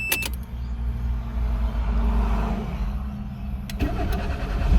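Starter cranking the 1995 Mazda 121's petrol engine until it catches and runs, with a couple of clicks near the end. The engine fires on the first attempt now that the failed fuel pump has been replaced.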